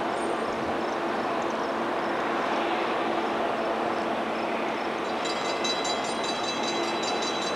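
Burlington Northern diesel freight train approaching, its locomotives giving a steady rumble. About five seconds in, a rhythmic high metallic ringing joins it.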